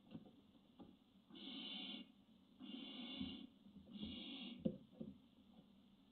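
Barn owl giving three rasping, hissing calls, each under a second long, with a couple of sharp knocks in the nest box after the third.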